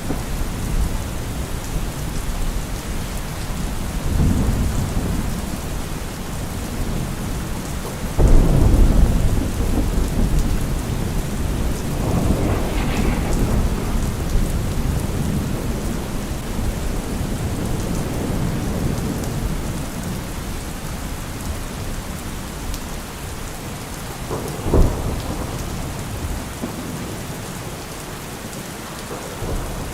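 Steady rain falling through a thunderstorm. Thunder rumbles about four seconds in, a loud clap breaks about eight seconds in and rolls on for several seconds, and a short, sharp crack comes later.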